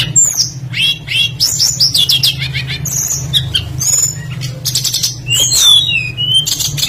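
Tledekan songbird singing a fast, varied song of chirps, whistled glides and short rapid trills, with a steady low hum underneath.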